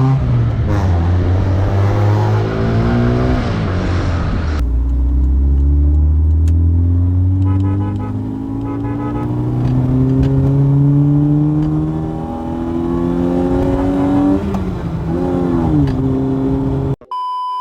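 Modified Honda City's swapped-in 1.5-litre four-cylinder engine accelerating hard, its pitch climbing in long rises across several cut-together runs, with an abrupt cut a few seconds in and a quick blip of the throttle near the end. A steady electronic beep tone sounds in the final moment.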